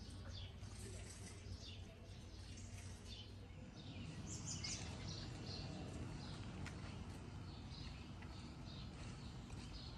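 Small birds chirping and calling over and over, busiest about halfway through, over a steady low background rumble.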